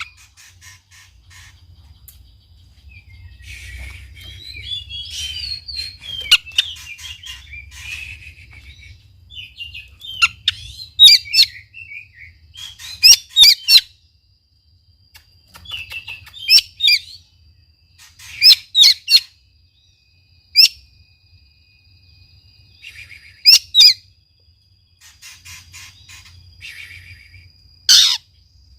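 Oriental magpie-robin singing in short loud bursts of chirps and sweeping notes with pauses between phrases, and a thin steady high tone running under the second half.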